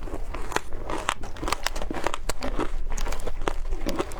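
Matcha shaved ice crunching as it is eaten close to the microphone: a rapid, irregular run of sharp crunches and crackles.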